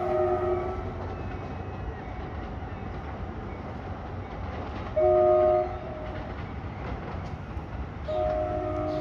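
Train horn sounding a chord of several notes: a blast ends just under a second in, a short loud blast comes about five seconds in, and a longer blast starts near the end, the pattern of a horn signal for a grade crossing. A steady low rumble of the moving train runs underneath.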